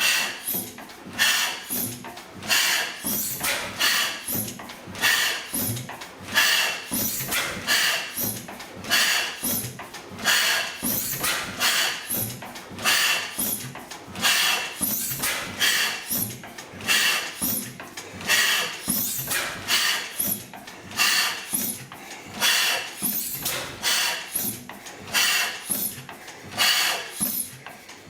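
National Type S 32 hp stationary gas engine running at a slow, regular beat, with a strong exhaust chuff about every one and a third seconds and lighter mechanical knocks between.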